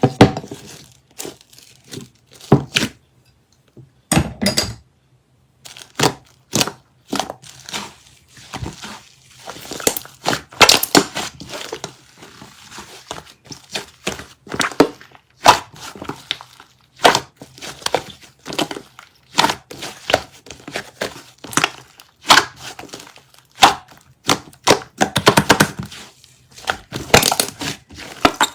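Sticky slime being squeezed and kneaded by hand, giving irregular crackling and popping clicks.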